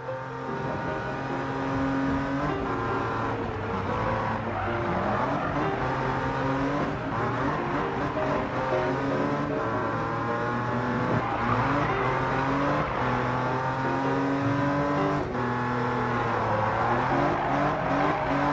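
Cartoon race car engine sound effects, the engines running steadily with slow rises and falls in pitch.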